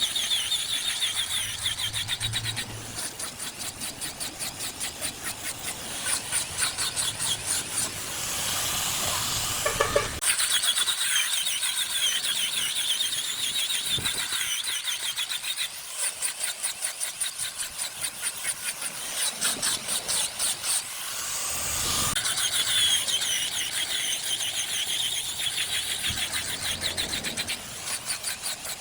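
Wood lathe turning: a cutting tool scraping a spinning wood block, giving a high, hissing squeal that pulses rapidly with the rotation.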